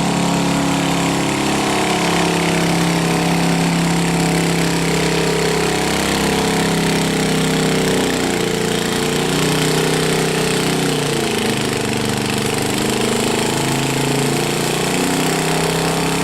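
Garden tractor engine running loud and steady, its pitch shifting a little now and then.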